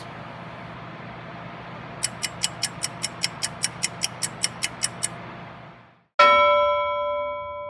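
A cooking appliance's steady hum, with a mechanical timer ticking about five times a second partway through. The hum cuts off and the timer bell gives one loud ding that rings out slowly, signalling that the cooking time is up.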